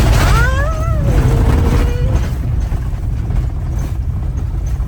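Steady low rumble of a vehicle driving over a rough gravel road, heard from inside the cabin. Shortly after the start a dog gives one high whine of nearly two seconds that rises, wavers, dips and then holds level.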